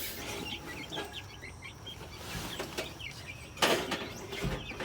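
Young chickens peeping and clucking in short repeated calls, with a brief loud rustle about three and a half seconds in.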